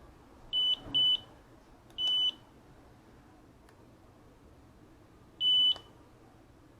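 Four short, high-pitched electronic beeps from a small device: two in quick succession, a third about a second later, and a last one a few seconds after that.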